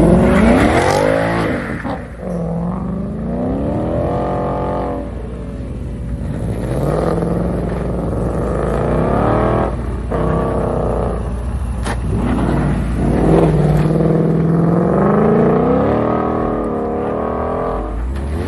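Sports and muscle cars accelerating away one after another, their engines revving up and climbing in pitch, then dropping back at each gear change or as each car passes, several times over.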